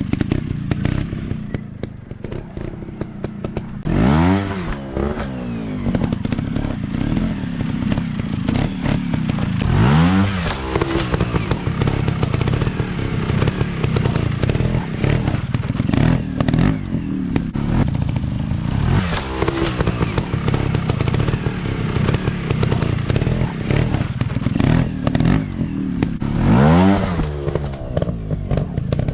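Dirt bike engines running under load off-road, revving up and dropping back sharply four times, with frequent knocks and clatter throughout.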